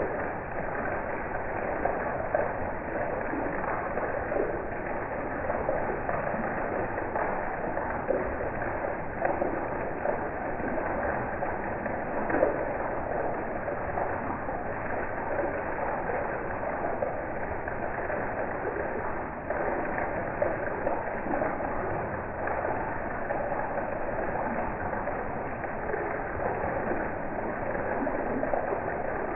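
Heavy rain falling steadily: a dense, even patter of drops and splashing water.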